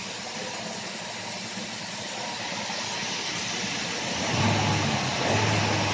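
Jeep Cherokee engine idling steadily after starting on the first crank with a new fuel pump fitted. About four seconds in, a deeper hum joins in and comes and goes.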